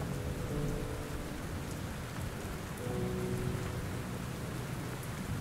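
Steady rain falling, with low rolling thunder underneath. A few soft held musical notes sound near the start and again for about a second midway.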